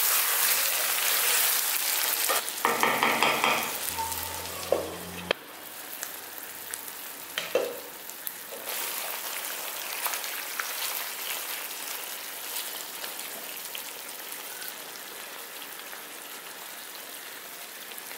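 Chicken pieces sizzling as they fry in a nonstick kadai, stirred with a spatula that scrapes and knocks against the pan. The sizzle is loudest at first, with a louder clattering stretch a few seconds in, then drops about five seconds in and goes on as a quieter hiss with small crackles that slowly fades.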